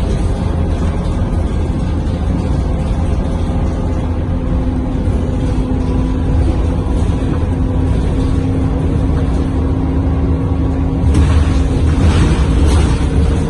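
Onboard sound of a Scania K230UB city bus's diesel engine driving, a steady low drone heard inside the cabin. The engine note rises slightly and then holds. A louder rush of hissing noise comes in about eleven seconds in and lasts a couple of seconds.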